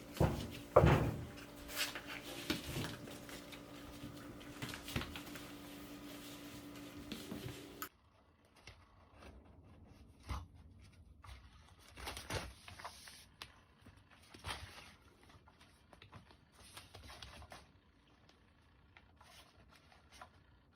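Kittens playing with toys: scattered knocks, taps and rustles, loudest near the start. A steady low hum under the first part cuts off suddenly about eight seconds in.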